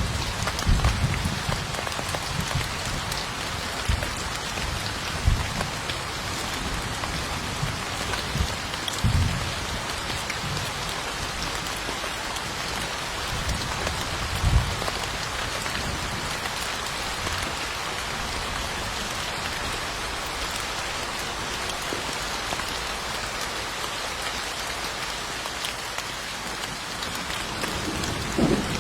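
Steady rain falling, an even hiss, broken by a few short low thumps.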